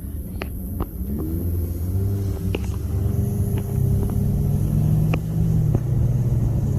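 Car engine accelerating, its pitch rising over the first couple of seconds and then holding steady, with a few scattered clicks.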